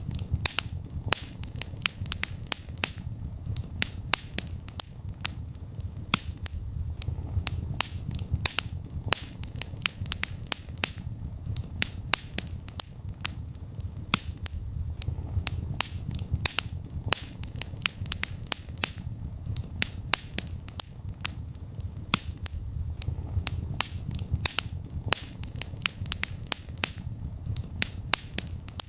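Wood fire in a fireplace crackling: frequent, irregular sharp pops and snaps over a low steady rumble of the burning fire.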